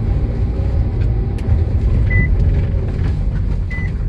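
Nissan Serena driving, heard from inside the cabin as a steady low road rumble with no knock from the front suspension, its strut bearing freshly greased. A short high electronic beep sounds twice, about a second and a half apart.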